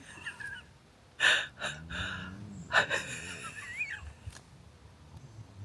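A sleeping person snoring: a few rasping, wheezy breaths with a low buzz between them.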